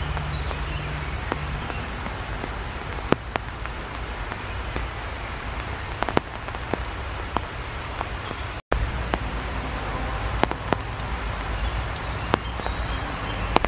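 Steady rain falling, with scattered sharp ticks of single drops striking nearby surfaces. The sound cuts out completely for a moment just under nine seconds in.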